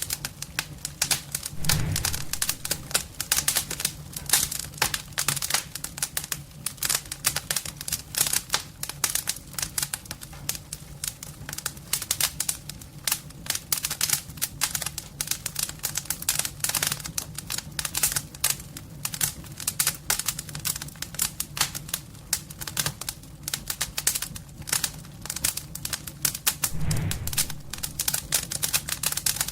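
Fire crackling in a homemade fireplace: dense, irregular crackles and pops over a steady low hum.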